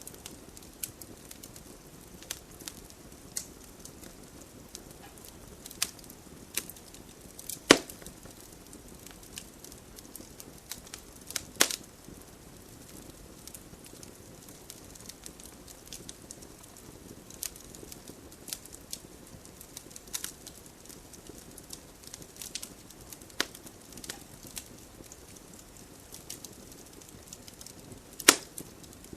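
Campfire crackling: irregular sharp pops and snaps over a low, steady hiss of burning, with a few louder snaps about eight seconds in, around twelve seconds, and near the end.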